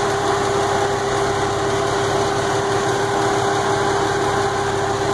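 Lexus IS300's 2JZ-GE inline-six engine running steadily, with a constant tone through its hum.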